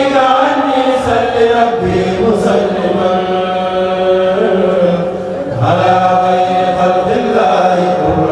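Male voices of a kourel chanting a religious poem in long, drawn-out notes. The singing dips briefly about five seconds in, then the next phrase begins.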